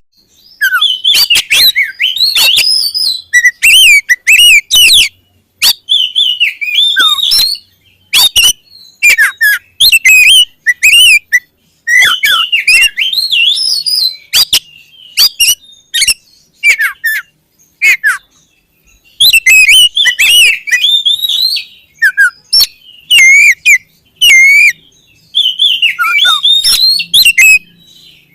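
Caged oriental magpie-robin (kacer) singing loudly in full song: rapid runs of whistles, chirps and harsh chatter, broken by short pauses every few seconds.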